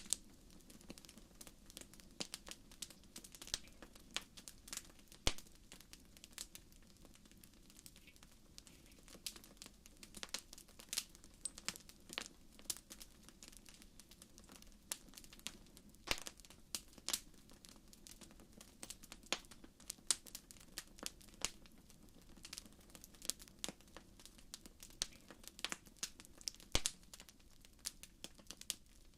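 Wood fire burning in a fireplace, crackling with frequent irregular sharp pops and snaps over a low steady hiss of flame.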